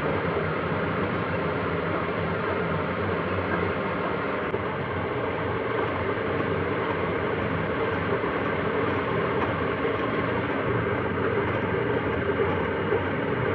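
A machine tool in a metal workshop running steadily, machining an iron gear blank, with an even noise that does not change.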